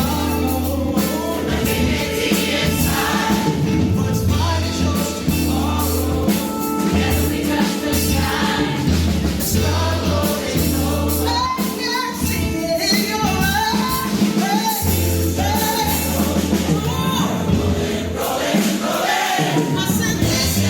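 A large choir singing with a live band, a steady bass line underneath.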